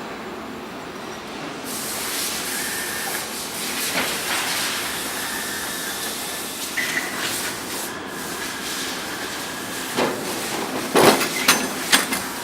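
Factory machinery in an engine plant: a steady air hiss with a faint whine, then several sharp metallic knocks near the end.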